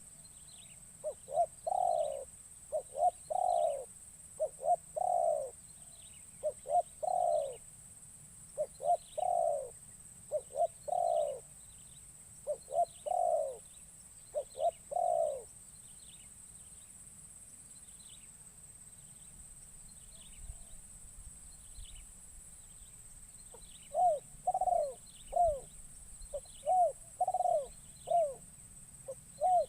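A captive spotted dove (terkukur) used as a decoy, cooing its repeated phrases of two or three quick notes and a longer falling coo. It calls steadily for about fifteen seconds, pauses for about eight, then starts again. A steady high insect drone runs underneath.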